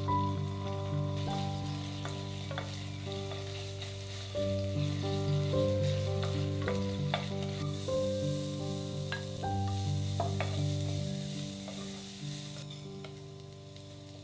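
Chicken fat sizzling as it fries in a ceramic pan, stirred with a wooden spoon that gives sharp clicks against the pan. The sizzle grows louder around the middle when diced onion goes in. Background music plays throughout.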